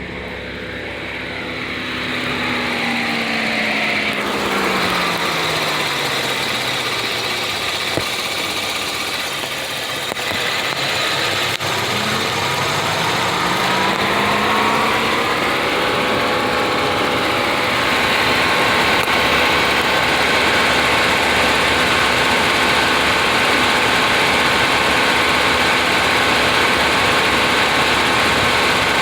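Kia Stinger's twin-turbo V6 running, heard from under the hood. Its tone sinks over the first several seconds, climbs back up about halfway through, then holds steady.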